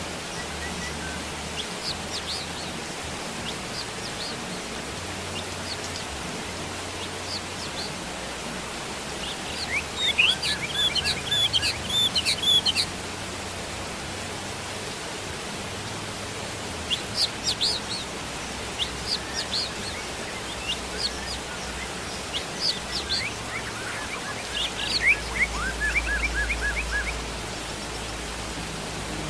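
Steady rain noise with small birds chirping over it: clusters of quick, falling chirps about ten seconds in and again from about seventeen seconds on.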